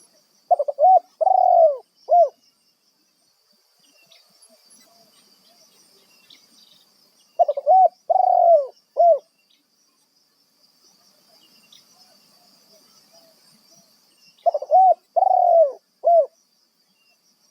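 Spotted dove (tekukur) cooing: three loud phrases about seven seconds apart, each of three or four quick coos, with soft coos in between.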